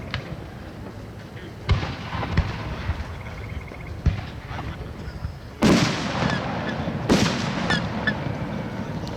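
Fireworks shells bursting in the air: a series of booms, the loudest two just past halfway, followed by light crackling.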